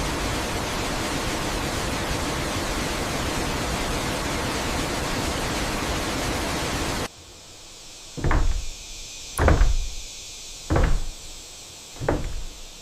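Steady rushing noise like a nearby waterfall, cut off abruptly about seven seconds in. Then come four heavy, dull knocks at an even pace, about one every 1.3 seconds, like blows on wood during construction.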